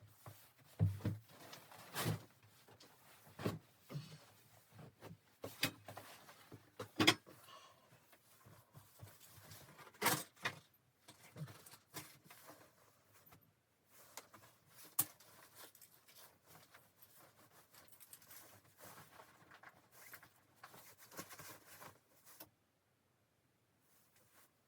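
Scattered knocks and clicks, irregular and a second or two apart, as of things being handled, stopping abruptly near the end.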